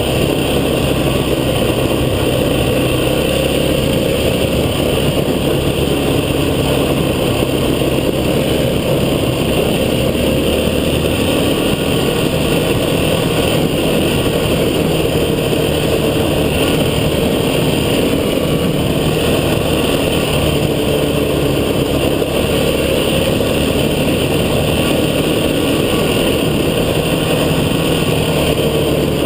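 Off-road vehicle engine running steadily while under way, with a constant rushing noise over it.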